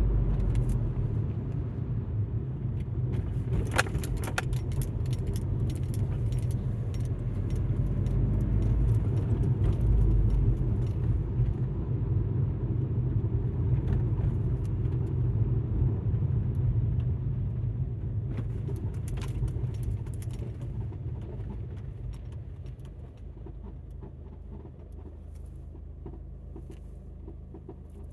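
Alfa Romeo MiTo heard from inside the cabin: low engine and road rumble that dies away over the last third as the car slows, with frequent light jingling, rattling clicks over it.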